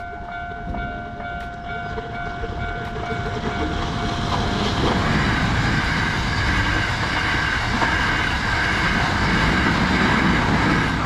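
A train running past, its rumbling noise building over the first few seconds and then holding loud. A steady, pulsing tone sounds over the first few seconds, and the sound cuts off abruptly at the end.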